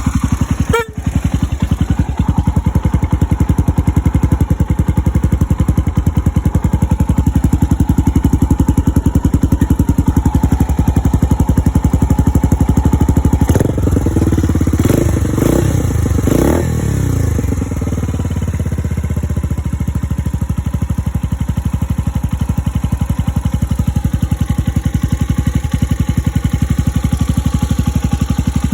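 Suzuki Grasstracker Big Boy's 250 cc single-cylinder engine idling steadily. Partway through it is blipped up three times in quick succession, then settles back to idle.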